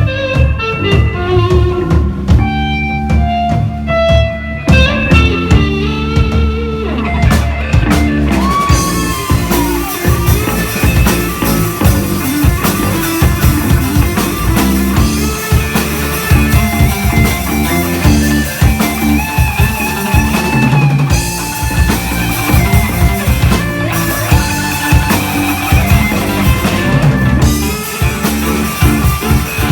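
Live indie/progressive rock band playing an instrumental passage of guitar and drums, sparse at first, with the full band and cymbals coming in about eight seconds in.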